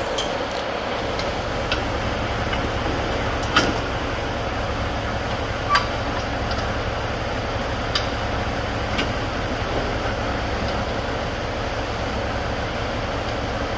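Steady machinery hum of a heavy-truck repair shop, with a few short, sharp metallic clinks scattered through it.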